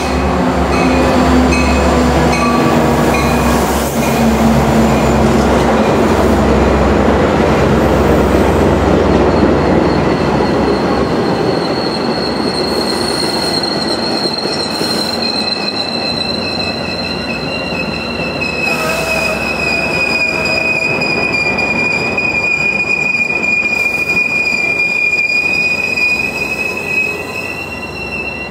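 A train rolling past with a heavy rumble for the first ten seconds or so. From about twelve seconds in, its steel wheels squeal against the rails in long, steady high-pitched whines that last to the end.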